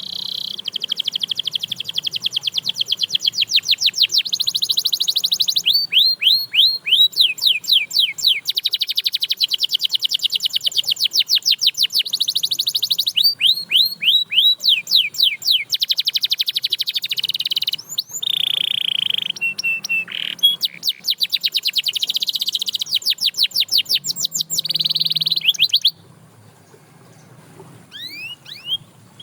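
Domestic canary singing a long, loud song of fast trills and rolls of quickly repeated sweeping notes. It stops about 26 seconds in, leaving only a few faint chirps.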